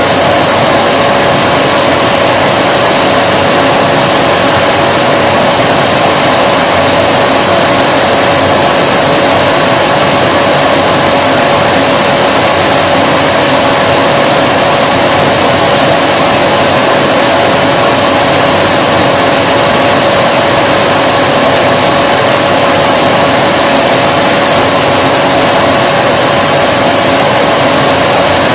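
Vacuum cleaner running steadily at full power: a constant loud rushing hiss of air with a steady motor whine under it.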